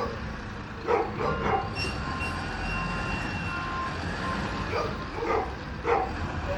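Garbage truck's diesel engine rumbling steadily, with a dog barking in two short runs, about a second in and again near the end. A truck's reversing beeper sounds faintly in the middle.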